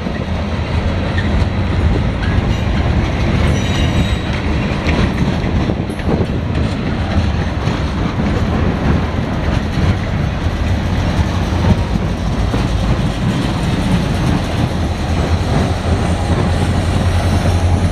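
Norfolk Southern local freight train rolling past, its railcar wheels clacking over rail joints above a steady low rumble. A faint wheel squeal rises near the end.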